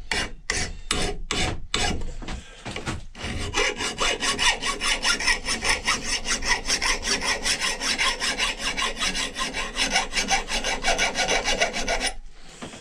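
Hand sanding strokes rubbing back and forth on a wooden axe handle. About three strokes a second at first, quickening to around four or five a second from about three seconds in, then stopping shortly before the end.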